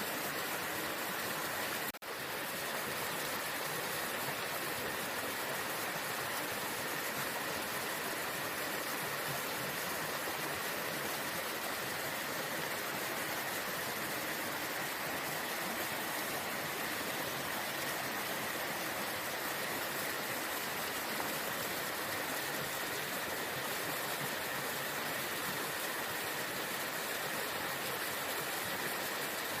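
Waterfall: a steady, even rush of falling water. It cuts out for a moment about two seconds in, then carries on unchanged.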